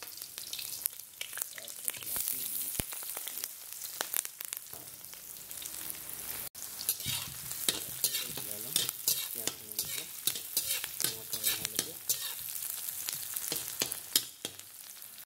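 Sliced onions and chillies sizzling and crackling in hot oil in a karahi, with a spatula scraping and clicking against the pan as they are stirred. The oil's sizzle breaks off for an instant about halfway through, then the stirring strokes come thicker.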